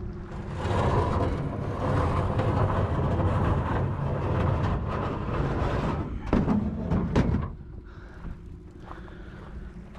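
A small boat being dragged over the ground: a rough scraping for about seven seconds, with a few knocks near the end as it stops.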